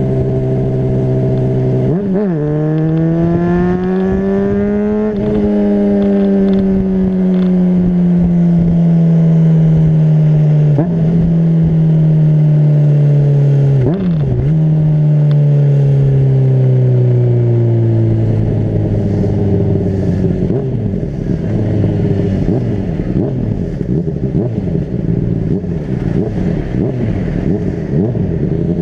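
Honda CBR600RR's inline-four engine under way, revving up over the first few seconds and then slowly falling in pitch, with a few brief breaks in the note. About two thirds of the way in the note drops low and turns uneven as the bike eases off.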